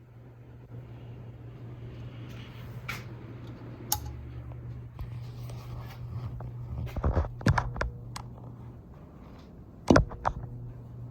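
Hampton Bay Minuet II ceiling fan running with a steady low motor hum. Several sharp clicks and knocks come over it, the loudest near the end.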